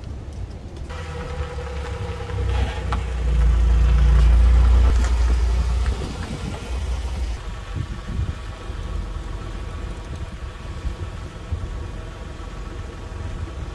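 2007 Buick LaCrosse running as it is driven out of its parking space and back in, loudest as it passes close by, three to six seconds in.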